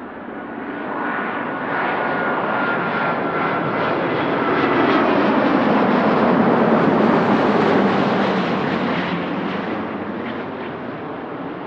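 Jet airliner passing close by. The engine noise swells to a peak about six to eight seconds in, then fades away, with a thin whine that slides slightly down in pitch as it nears.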